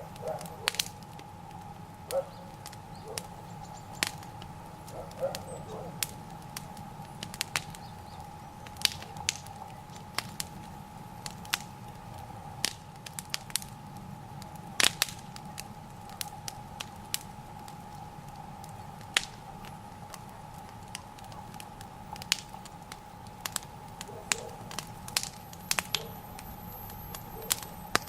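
Bonfire of raspberry canes and dry boards burning, crackling with sharp, irregular pops and snaps.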